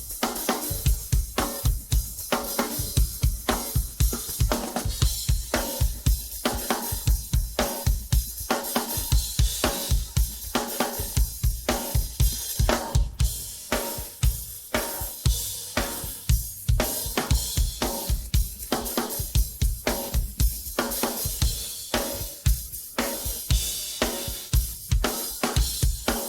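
Isolated drum track: a full drum kit playing a busy, steady funk-rock groove, with bass drum, snare and hi-hat and cymbals over the top.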